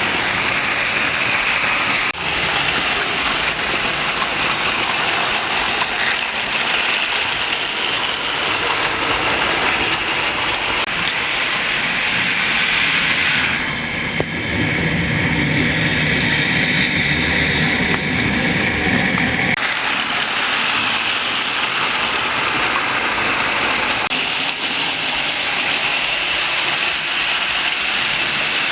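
Lionel model trains running on the track: a steady rolling rumble and motor whir. Between about 11 and 20 seconds the sound changes abruptly to a duller, lower rumble, then switches back.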